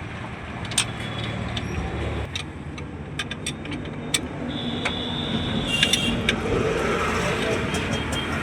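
A vehicle engine running under many sharp metallic clicks and taps of tool and metal work, with a steady high tone for about a second around the middle.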